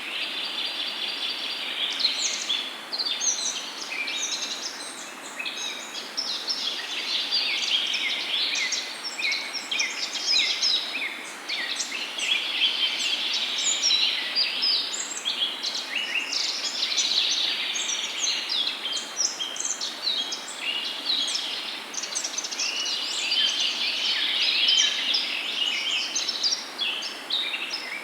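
A dense chorus of many songbirds chirping and trilling at once, with no pause, over a faint steady hiss.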